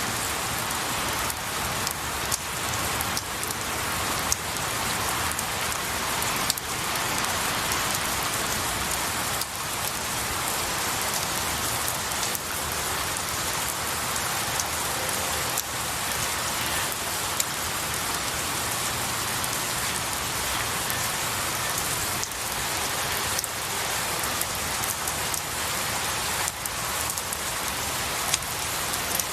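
Steady rain falling on pine needles and a tree, an even hiss with scattered sharper drop ticks.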